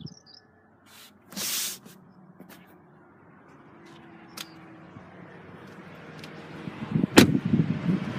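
Handling noises in and around a car: a few light clicks, a short rustling burst about a second and a half in, then a steady background noise swelling, with a sharp knock like a car door near the end and rough knocks after it.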